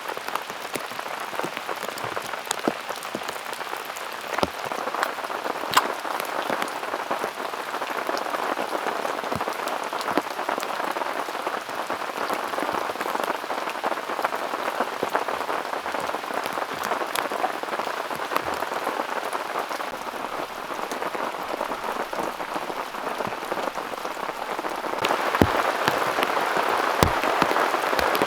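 Heavy rain falling steadily, a hiss with many separate drops striking close by, growing louder near the end.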